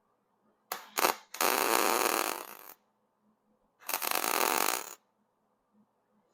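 MIG welder arcing: two quick tack pulses about a second in, then two welding runs of a second or so each, a steady crackling hiss that stops between them.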